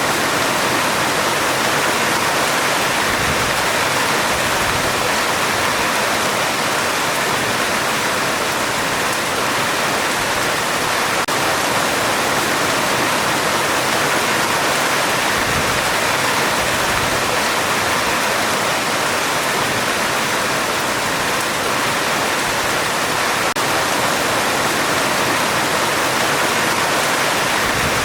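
Heavy rain falling on a metal roof, a dense, steady hiss with no let-up and no thunder.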